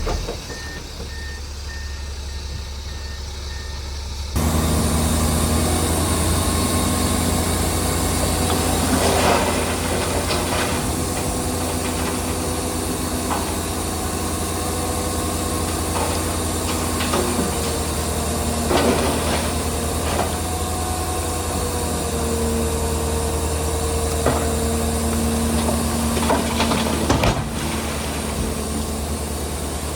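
Heavy diesel earthmoving machinery running steadily, with a faint repeating beep during the first few seconds. The sound gets suddenly louder about four seconds in. Sharp metallic clanks come every few seconds after that.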